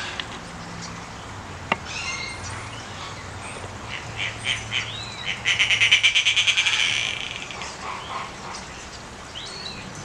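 Bird chirps and short sweeping calls, then a loud rapid trill of about ten pulses a second lasting a second and a half, just after the middle. One sharp click comes near the start.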